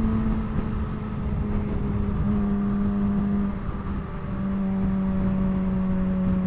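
2007 Suzuki GSX-R600's inline-four engine through a straight-pipe exhaust, running steadily at highway cruising speed. The engine note eases off briefly about four seconds in, then holds steady again.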